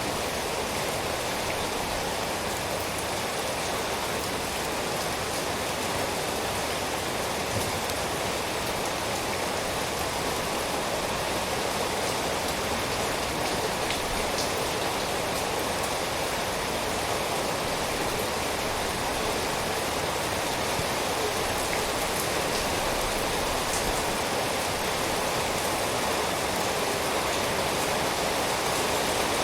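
Steady rain, a dense even hiss with scattered faint drop ticks.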